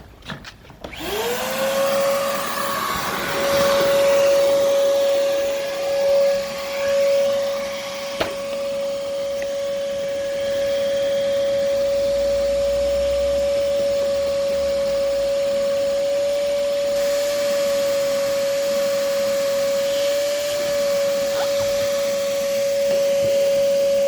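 Vacuum cleaner switched on about a second in, its motor spinning up to a steady whine and running on while it cleans a car's carpet mat.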